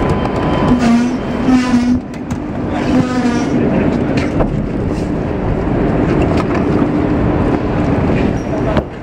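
Station platform din beside a standing VIRM double-deck electric train, with a steady hum from the train. Voices of passers-by come through briefly about a second in and again about three seconds in.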